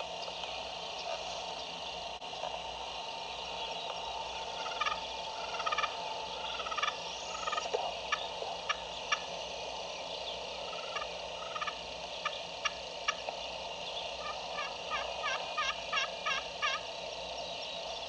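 Turkey yelping: several short series of high notes at about two a second, a few sharp single clucks around the middle, then a faster run of about nine notes near the end, over a steady background hiss.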